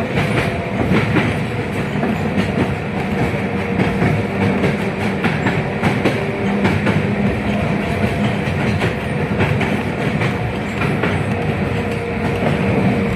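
A 71-619KT tram car in motion, heard from inside: wheels knocking and rattling over the rails with frequent clicks, over steady running noise and a steady hum.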